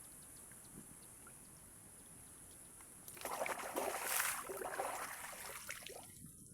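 Water splashing as a person moves about while swimming, starting about three seconds in and lasting about three seconds, over a faint background hiss.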